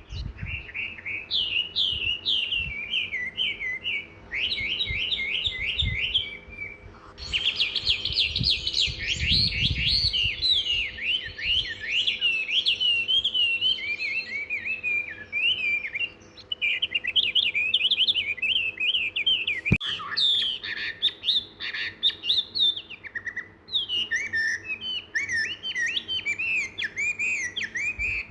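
Several small songbirds chirping and twittering together in a dense, continuous chorus of quick, high chirps, with a sharp click about two-thirds of the way through.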